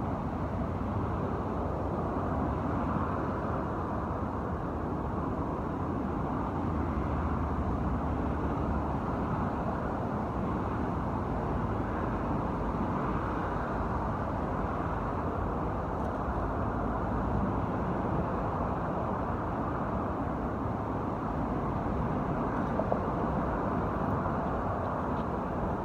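Steady noise of continuous road traffic from a nearby highway: an even wash of tyre and engine sound with no single vehicle standing out.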